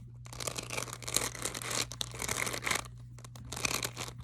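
Bead-filled squishy stress toy, with most of its air let out, being squeezed and kneaded in the hand, its beads crackling and crunching inside the skin. A long stretch of crackling, a short pause, then a shorter burst near the end.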